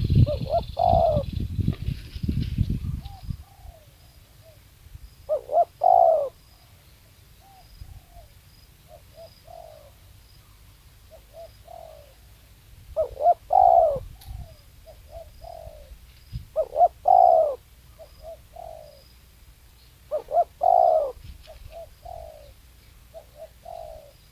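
Spotted dove cooing: five repeats of its song phrase, each a loud double coo followed by several softer coos. A low rumble runs under the first few seconds.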